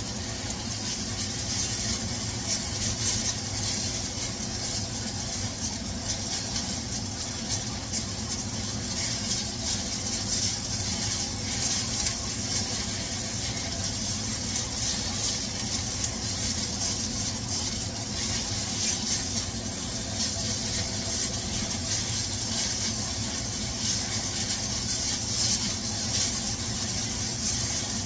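Chicken pieces browning in hot oil in a wok, sizzling and crackling steadily as they are stirred, over a steady low hum.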